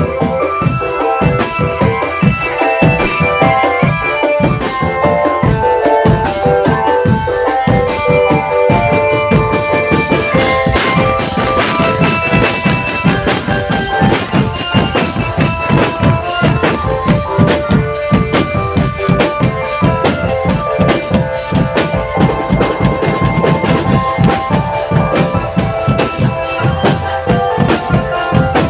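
Marching drum band playing: a dense, fast beat of bass and snare drums under a melody of held notes.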